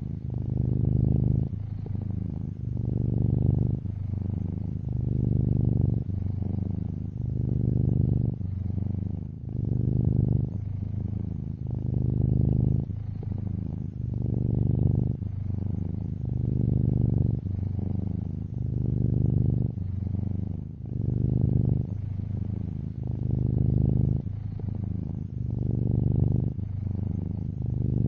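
A domestic cat purring close to the microphone: a low, even buzz that swells and eases about every two seconds as the cat breathes in and out.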